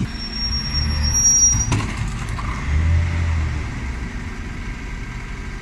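Dennis Elite 6 refuse lorry's engine rumbling, swelling twice as it works, with a thin high squeal for about the first second and a half.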